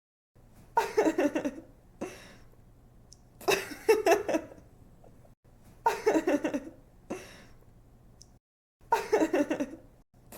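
A young woman giggling, repeated as a looped laugh sound effect: four laughs of about a second each, made of quick pulses that fall in pitch, coming about every two and a half seconds.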